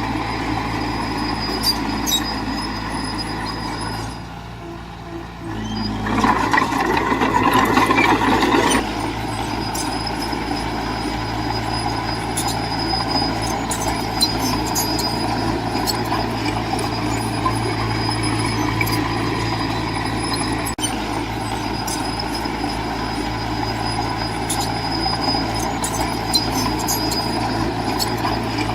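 Heavy diesel engine of earthmoving machinery running steadily. It drops away briefly about four seconds in, then comes back louder and rougher for about three seconds before settling to its steady running.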